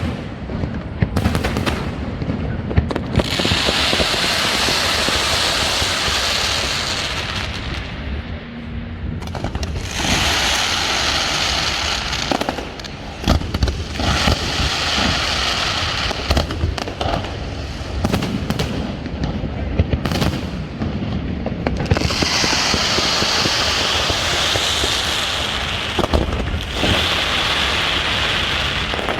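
Fireworks display: shells bursting in many sharp bangs, with several long stretches of dense crackling.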